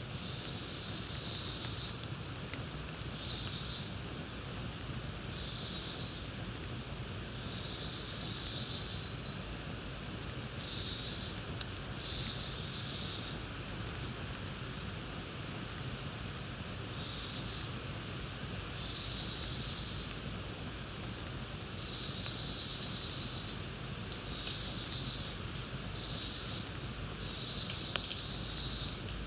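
Campfire crackling: a steady hiss of burning wood with scattered sharp pops. Over it, short high bird chirps repeat every second or two.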